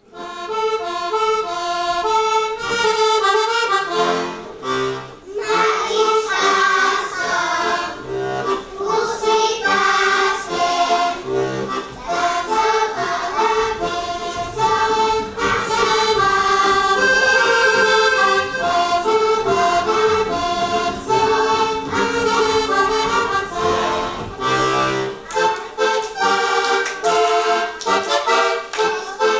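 Accordion playing a Slovak folk tune, with held melody notes over a regular low bass note.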